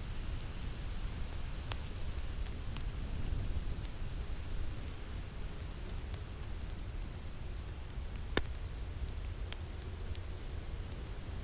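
Winter wind blowing steadily with a crackling wood fire over it: scattered sharp pops and snaps, the loudest about eight seconds in.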